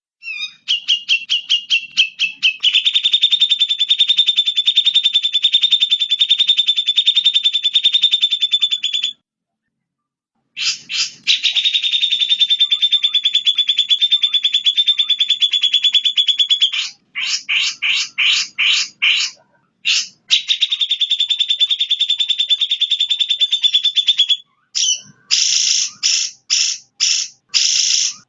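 Recorded songbird calls: long, very fast rattling trills of repeated notes, broken by a pause, then shorter separate bursts near the end.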